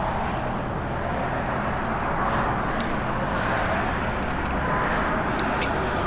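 Steady roar of freeway traffic on Interstate 40, with a few faint ticks.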